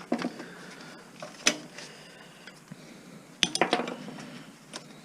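Metal parts of a stereo being handled during dismantling for scrap: a few sharp clinks and knocks, one about a second and a half in and a quick cluster around three and a half seconds.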